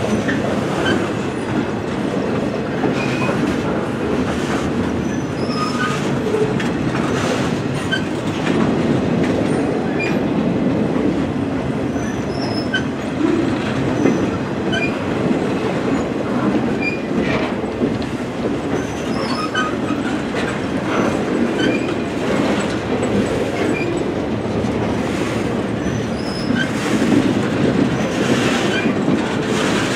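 Loaded railroad flatcars rolling steadily past at trackside, making a continuous rumble of steel wheels on rail with irregular clicks and short high squeaks here and there.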